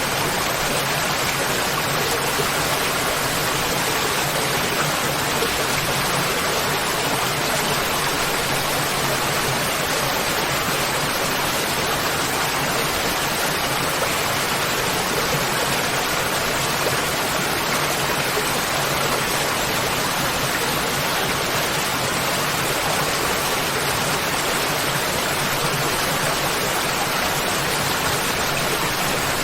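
Waterfall: water falling and rushing, a steady, even hiss and rumble with no breaks or changes.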